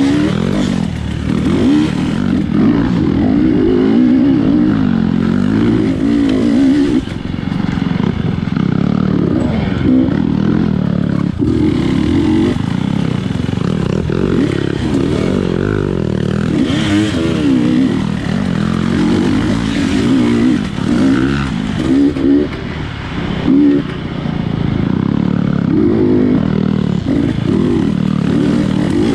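250cc GasGas dirt bike engine revving up and down continuously as the throttle is opened and closed, with brief let-offs about seven seconds in and again near two-thirds of the way through.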